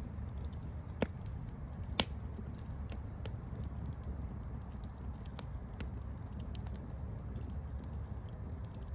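Campfire crackling: scattered small snaps over a steady low background noise, with two sharp pops about one and two seconds in, the second the louder.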